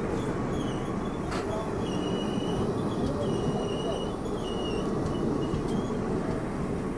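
Passenger train rolling on the rails, heard from an open coach door: a steady rumble with a series of short, high-pitched wheel squeals and a single click about a second and a half in.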